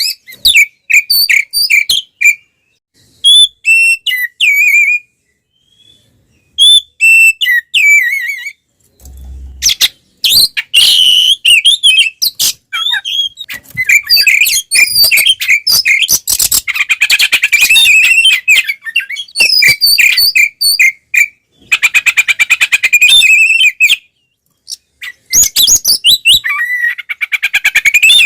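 Oriental magpie-robin (kacer) singing loudly in its aggressive fighting song: phrases of clear whistles and quick trills in bursts with short pauses between them, and stretches of very fast repeated chattering notes in the middle and near the end.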